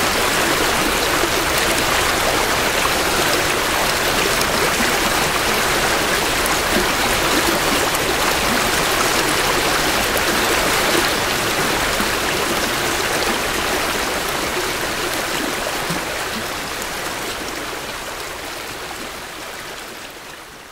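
Creek water rushing and splashing over rocks in a steady flow, heard close up from the bank; it fades out gradually over the last several seconds.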